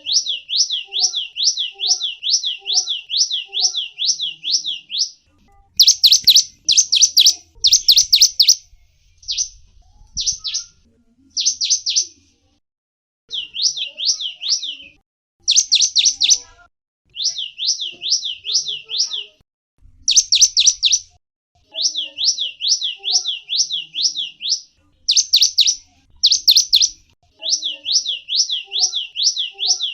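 Gelatik wingko bird calling in fast runs of short, high chirps, about two to three a second, in bouts of several seconds. Louder single chirps come between the bouts.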